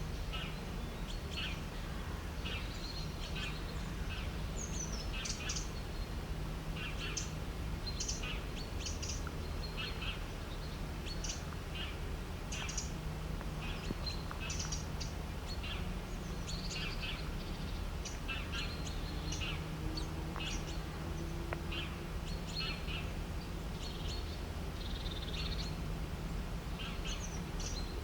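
Birds chirping, many short calls coming thick and fast over a steady low rumble in the background.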